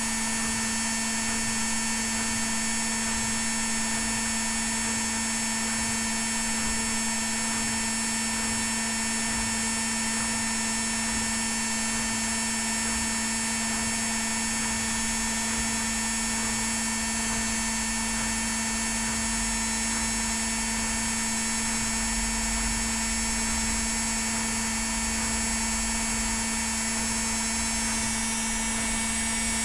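Indesit WIL82 washing machine on its spin cycle: the drum and motor spinning at a steady high speed, giving an even hum with a high whine. A low rumble grows in from about halfway.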